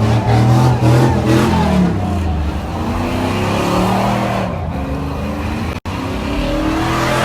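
Several truck engines running and revving at once, their pitch rising and falling. The sound drops out for an instant near the end.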